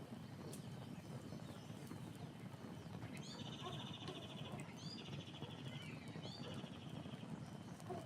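Campfire burning with a steady low crackle and scattered sharp pops. A bird sings three short trilled phrases over it, starting about three seconds in.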